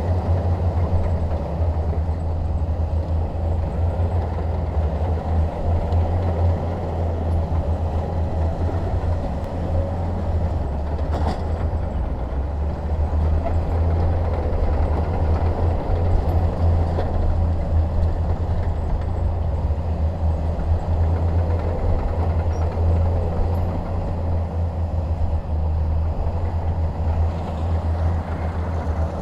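Bulldozer's diesel engine running with a steady low drone, with a faint knock about eleven seconds in.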